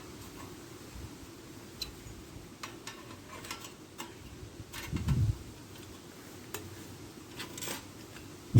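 Light metallic clicks and taps of the thin steel plates of a OneTigris Rocuboid flat-pack wood stove being slotted together, with a dull thump about five seconds in and a louder knock at the end.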